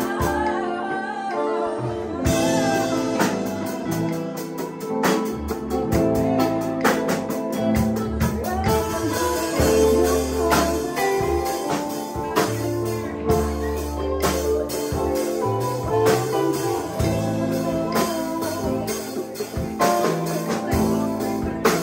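Live band music: a song with singing and guitar over bass and a steady beat of percussive hits.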